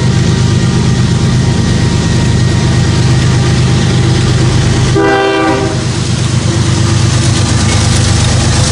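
Union Pacific GE diesel locomotives approaching and passing close, engines running loud, while the multi-note locomotive horn sounds. A little past the middle the horn chord stands out clearly for about half a second.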